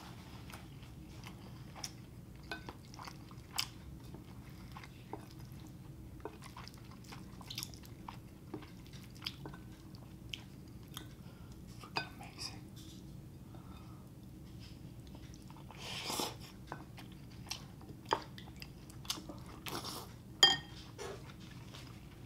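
Close-up mouth sounds of a person eating beef over rice: chewing and biting, with many small wet clicks and smacks. Near the end a sharp clink against a bowl is the loudest sound.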